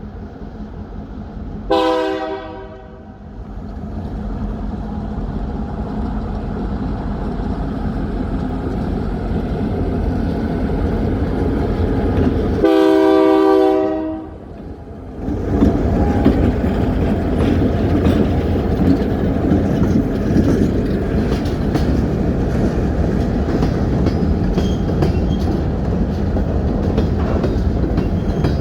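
Diesel locomotive air horn sounding a short blast, then about ten seconds later a longer blast, over the growing rumble of the approaching train. Just past the middle the train passes close, its engine and rolling cars rumbling, with wheels clicking over the rail joints.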